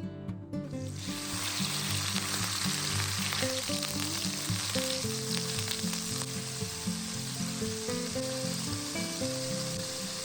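Food sizzling as it fries in hot oil: a steady hiss that starts about a second in, over background acoustic guitar music.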